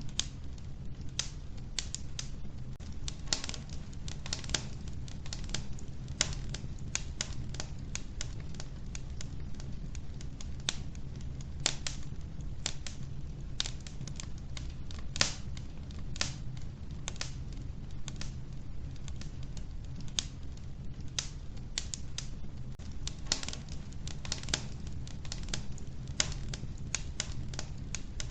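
Wood fire burning in an old wood-burning stove: logs crackling and popping in irregular snaps, several a second, over a steady low rumble of the flames.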